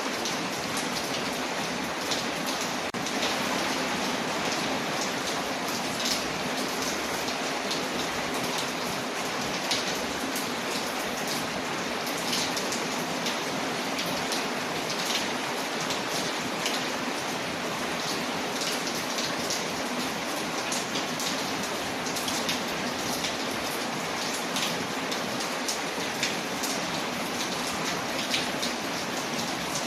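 Steady rain on a window, layered with a crackling fire whose short, sharp clicks are scattered throughout.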